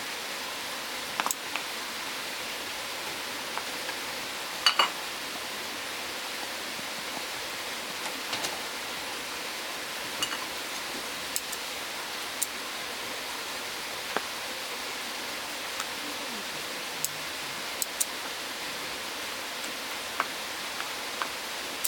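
Burning firewood crackling: a steady hiss with irregular sharp pops and snaps, the loudest a little before five seconds in.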